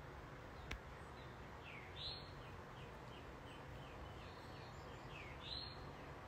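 A bird chirping: two louder sweeping calls, about two seconds in and near the end, with a run of short, quick chirps between them, over a steady low hiss. A single sharp click sounds just under a second in.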